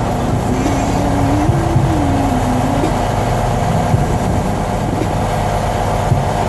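Tractor-trailer's diesel engine idling steadily, with a wavering pitched tone over it for the first few seconds.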